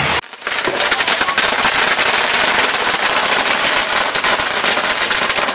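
Pyrotechnics on a burning Mexican castillo fireworks tower: a dense, rapid, continuous crackle of firecracker pops. It starts abruptly after a short break a moment in.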